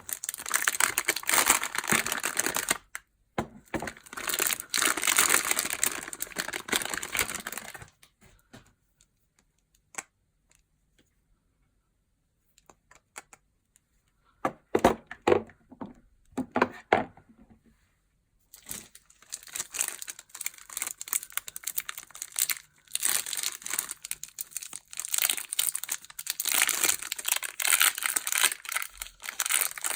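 Soap packaging wrappers crinkling and tearing as bars of soap are unwrapped by hand. The rustling is dense at first, stops for several seconds apart from a few faint ticks, comes back in a short flurry, then runs on continuously.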